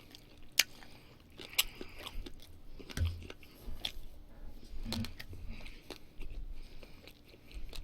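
Close-miked chewing and biting of a mouthful of barbecued pork belly and duck wrap, with sharp crunches and wet clicks scattered through.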